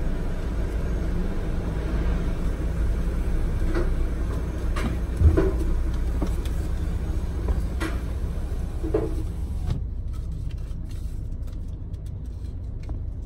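Steady low rumble of a car idling, heard from inside the cabin, with a few faint knocks and clicks and one louder thump about five seconds in.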